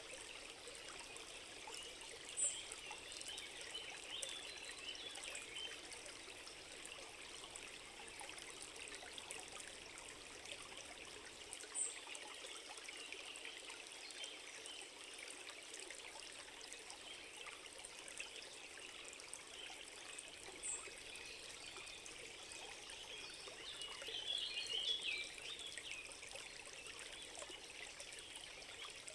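A stream running steadily, with three brief high chirps about nine seconds apart and a short flurry of sharper sounds near the end.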